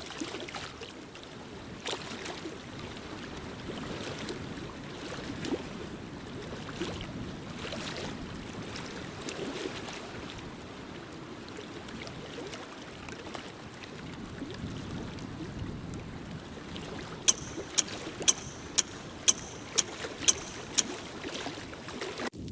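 Fireplace crackling: a steady hiss of burning with scattered small pops. Near the end comes a run of about nine sharp clicks, roughly two a second.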